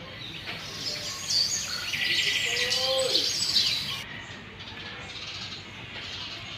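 Pet parrots chirping and calling in a busy run of short high chirps and gliding whistles, loudest in the middle, over a hiss that stops near the end.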